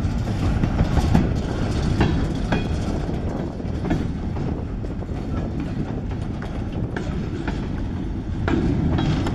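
Loaded freight cars rolling past close by: a steady low rumble of steel wheels on rail, with irregular sharp clicks as the wheels pass over rail joints.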